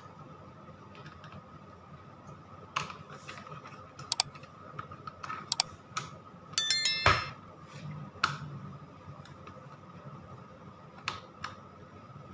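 Scattered clicks and knocks of parts and tools being handled, with a loud scraping clatter about seven seconds in, over a faint steady high hum.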